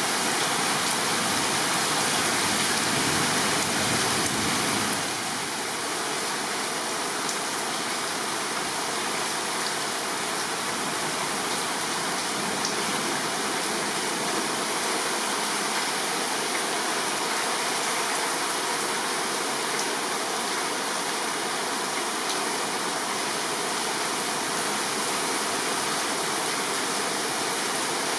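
Torrential thunderstorm rain pouring down as a steady, even hiss that eases slightly about five seconds in.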